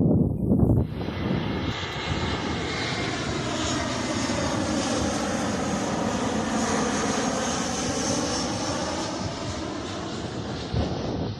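Airliner passing low on final approach to land, its engine noise swelling in about a second in and holding loud for several seconds with a sweeping, phasing hiss, then easing off near the end.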